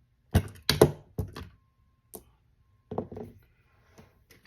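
Several sharp thunks and knocks of small hard objects being handled and set down on a hard work surface: three in quick succession in the first second and a half, then one more about three seconds in.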